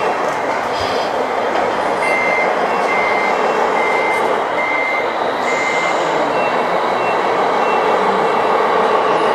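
Reversing beeper of an RC truck: a string of evenly spaced beeps, five strong ones a little under a second apart starting about two seconds in, then fainter, higher beeps. Under them runs a steady, louder running noise.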